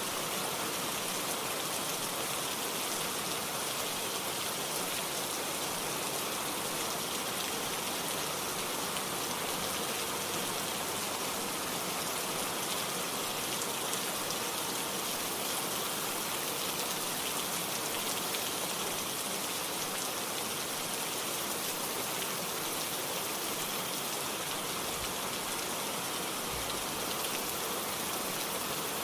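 Steady rainfall, an even hiss of many drops pattering on surfaces, unchanging throughout.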